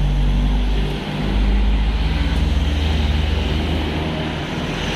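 A motor vehicle's engine running steadily, with a strong low rumble that dips briefly about a second in.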